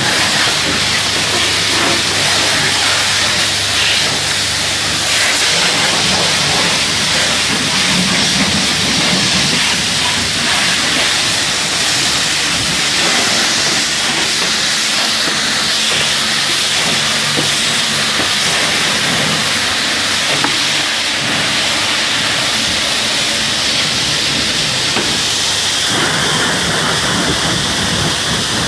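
High-pressure water spraying steadily from a self-service car wash machine's lance, a loud continuous hiss. A higher steady tone joins near the end.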